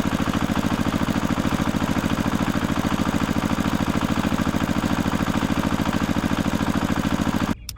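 A small engine idling steadily with a fast, even chug, then cutting off abruptly near the end.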